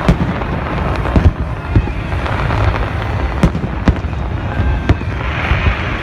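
Fireworks going off: a continuous rumble of distant bursts with sharp bangs every half second or so, and a crackling hiss near the end.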